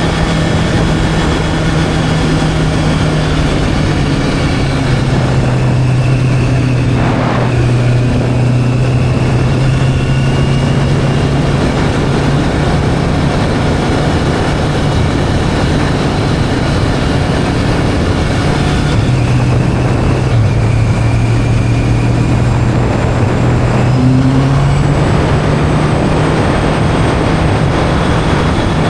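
Motorcycle engine running at a steady road speed under a rush of wind noise; the engine note drops about five seconds in and climbs again near the end.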